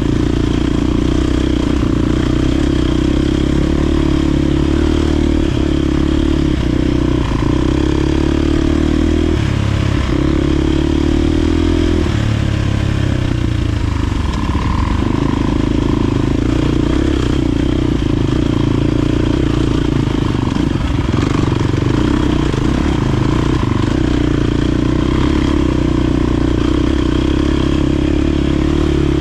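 KTM enduro dirt bike engine running while riding, the engine note steady, then dropping and picking up again about halfway through.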